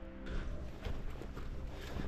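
Footsteps on a rough woodland path, a run of irregular short clicks and scuffs that starts abruptly a moment in.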